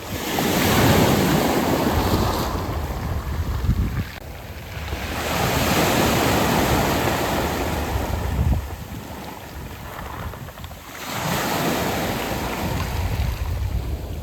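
Sea waves washing up and drawing back over a beach of round pebbles, in three surges about five seconds apart, each swelling loud and then fading.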